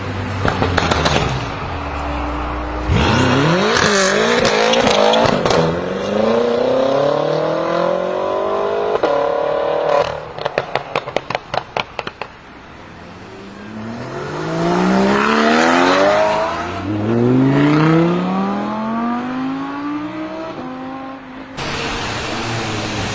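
BMW M5 F10 twin-turbo V8 with catless downpipes accelerating hard, its pitch climbing and dropping back through several gear changes. Near the middle comes a rapid string of about a dozen sharp exhaust crackles and pops. The car then pulls through the gears again.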